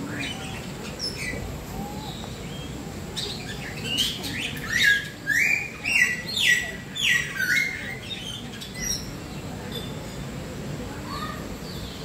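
Songbirds calling in a walk-through aviary. Between about four and eight seconds in, a run of about seven loud, evenly spaced whistled notes sounds, each sliding up and then holding. Softer chirps are scattered around it.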